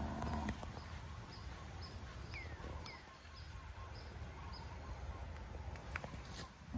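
Faint outdoor ambience of birds calling: short high peeps repeating about every half second, with two falling chirps near the middle, over a low steady rumble. A few sharp clicks come near the end.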